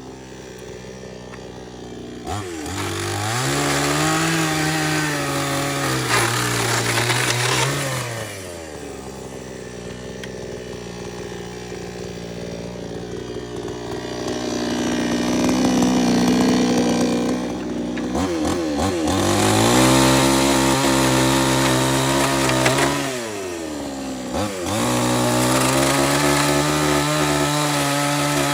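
A small engine running at high revs; its pitch falls sharply and climbs back up several times, with a quieter, lower-revving stretch in the middle.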